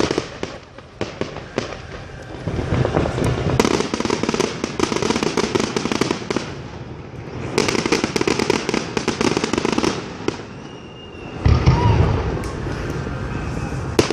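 Fireworks display: dense crackling and popping of bursting aerial shells, with a short lull and then a heavy low boom near the end.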